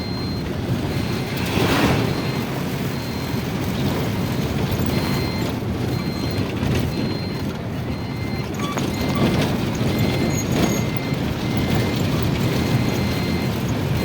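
A vehicle's reversing alarm beeping on and off at one fixed pitch over a steady low rumble.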